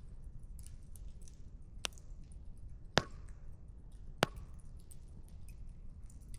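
Burning firewood crackling, with frequent small ticks and three sharp pops, the loudest about three and four seconds in, over a low steady rumble.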